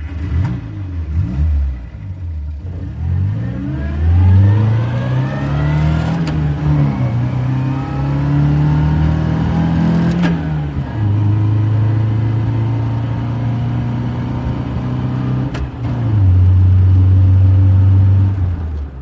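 An engine revving up and down several times, then holding steady at one speed twice, loudest near the end. It starts and cuts off abruptly.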